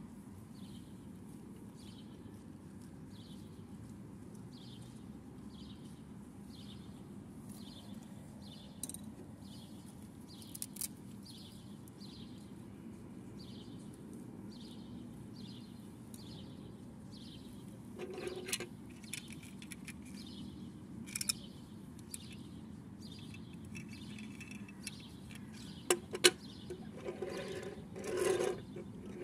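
A bird chirping over and over, about one short high call a second, over a steady low hum. In the second half, small plastic toy parts click and knock on a wooden table, with a couple of sharp clicks the loudest, and near the end a short rubbing scrape as the toy tricycle is pushed along.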